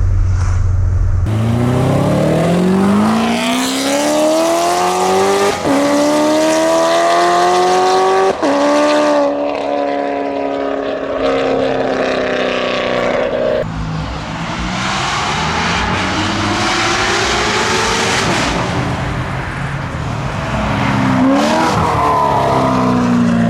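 Supercharged V8 of a Corvette C7 Z06 fitted with long-tube headers, accelerating hard. Its pitch climbs steadily with two sudden drops at upshifts in the first half, then it eases to a lower, steadier note, with a few short rises and falls near the end. The headers and tune give the pushrod V8 a high-pitched, smooth, Ferrari-like sound instead of its usual choppy rumble.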